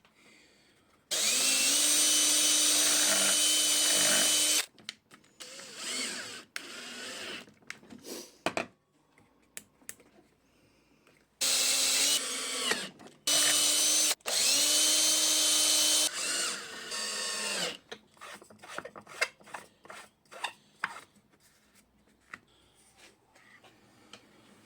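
Electric drill running in four bursts: one of about three seconds near the start, then three close together in the middle. Each speeds up to a steady whine and cuts off. Light clicks and knocks come between and after the bursts.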